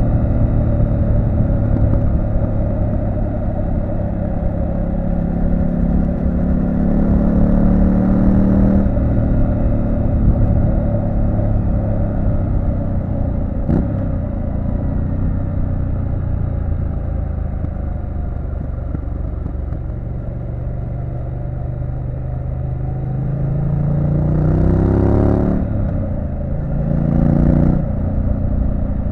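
Triumph Street Scrambler 900's parallel-twin engine riding under load. The revs climb and drop sharply about a third of the way in, then twice more in quick succession near the end, as the bike accelerates and shifts up.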